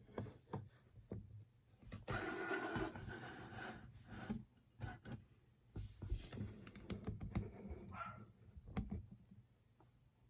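Light clicks and knocks of small metal parts being handled and fitted together, with a stretch of rustling about two seconds in.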